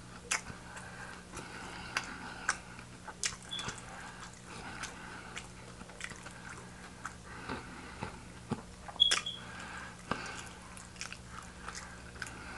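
Quiet close-miked chewing of fried chicken wings: irregular wet mouth clicks and smacks, with a low steady hum underneath.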